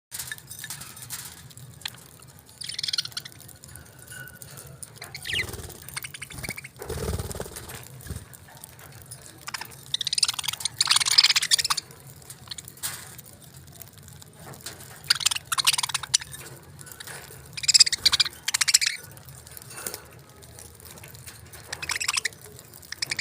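Budgerigars chirping and chattering in scattered bursts, loudest in two spells about ten and eighteen seconds in, with a brief low rumble about seven seconds in.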